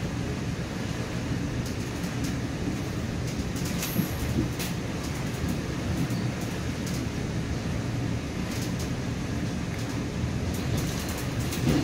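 Steady running noise of a commuter train in motion, heard from inside a passenger coach, with a few sharp clicks about four seconds in and again near the end.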